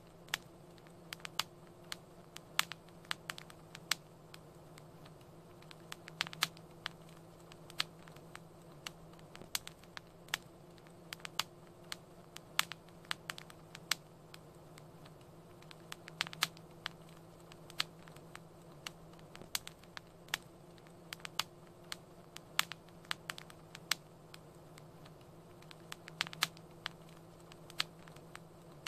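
Wood fire crackling in a fireplace: irregular sharp pops and snaps, several a second in clusters, over a faint steady low hum.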